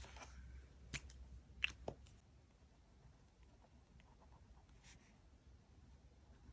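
Quiet handling of paper and stationery while decorating a diary: a brief soft rustle, then three sharp little clicks or taps within the first two seconds.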